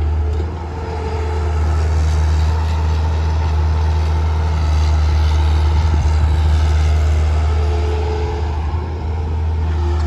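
Heavy diesel engine running steadily with a deep hum, easing off briefly about half a second in and again around nine seconds in.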